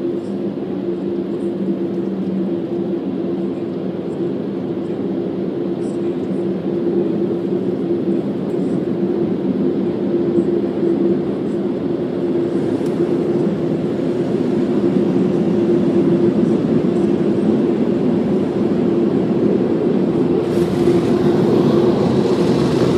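Automatic car wash machinery running: a steady low mechanical hum under a constant rushing noise, with a louder, brighter rush coming in near the end.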